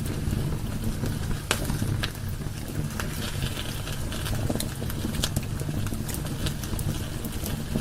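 Wood fire burning in a fireplace: irregular crackles and pops over a low, steady rumble of the flames.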